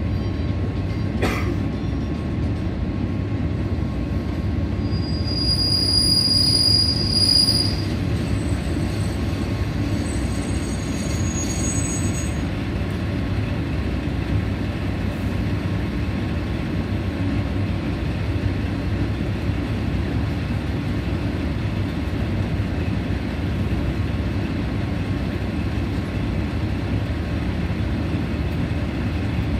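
KiHa 47 diesel railcar idling at a station stop with a steady low rumble, while another train pulls in alongside: its brakes give a high squeal for a couple of seconds about five seconds in, the loudest moment, followed by fainter high squeaking until about twelve seconds in.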